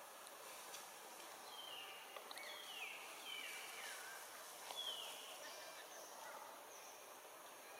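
A handful of short, high-pitched animal calls, each falling in pitch, over a faint steady outdoor background.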